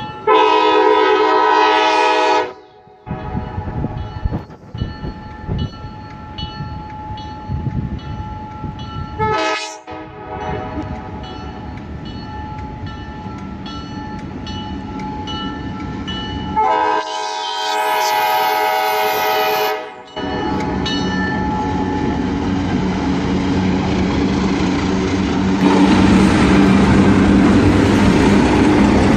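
Passenger train's locomotive horn sounding three blasts, long, short, long, then the train's rumble building and growing loud as it comes through.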